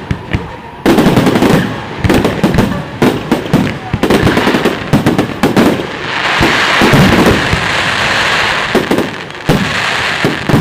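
Fireworks display: a rapid barrage of sharp bangs and cracks, many in quick succession. About six seconds in, a steady hissing crackle swells for a couple of seconds among the bangs.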